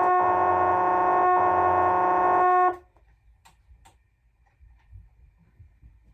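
A loud, steady chord of several held tones from a VHS tape's soundtrack, played through a TV at full volume, cuts off abruptly about two and a half seconds in. Near silence follows, with a few faint clicks.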